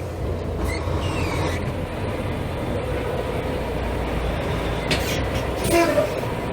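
Volvo D13 diesel engine of a semi truck idling with a steady low rumble. There is a short falling whine about a second in and a couple of brief knocks near the end.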